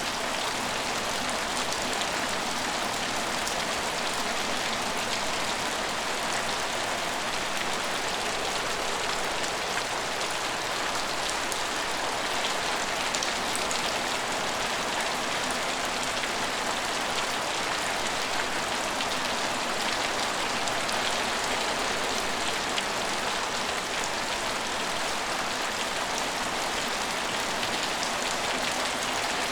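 Steady rain falling on hard surfaces, a dense even hiss flecked with small drop ticks.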